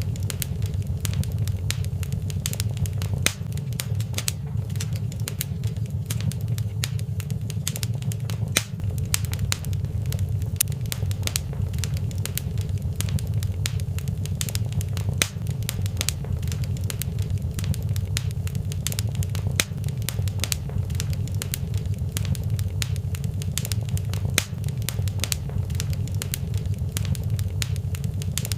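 Fireplace fire crackling: frequent sharp, irregular pops and snaps over a steady low rumble.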